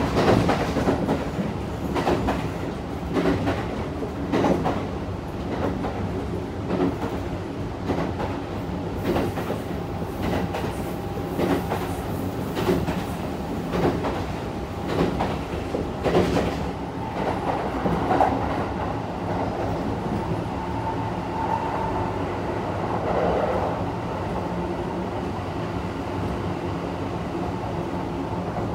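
Kintetsu 1233 series electric train running, heard from inside the passenger car: the wheels click over rail joints in a regular rhythm over a steady rumble. In the second half the clicks die away and a steadier whine near the middle of the range comes in, typical of the train's VVVF inverter drive.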